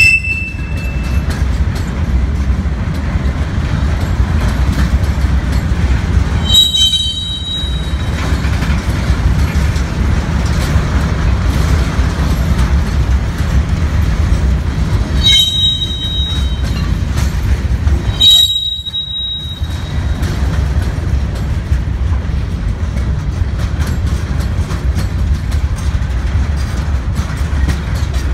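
CSX freight train of open-top hopper cars rolling past close by: a steady rumble of steel wheels on the rails, broken by four short high-pitched wheel squeals, the first at the very start and the last about two-thirds of the way through.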